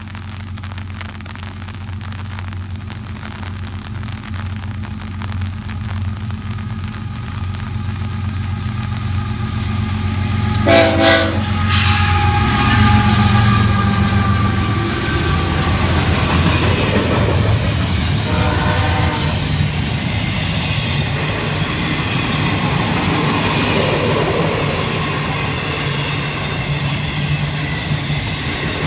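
Florida East Coast Railway GE ES44C4 diesel locomotives approach and pass, their engines rumbling louder. The air horn sounds about eleven seconds in and again briefly around eighteen seconds. The intermodal cars then roll by with clickety-clack from the wheels on the rail joints.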